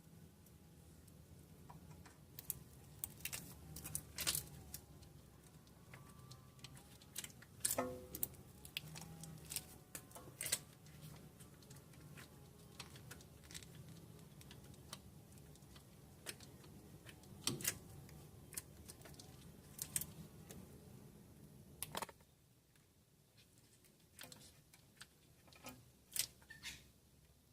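Scattered faint clicks and light metallic clinks over a low steady hum, which stops near the end.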